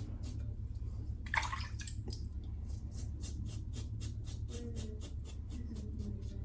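Stainless steel double-edge safety razor scraping through lathered stubble in short, quick strokes, about five a second, with a brief louder rush of noise about a second and a half in.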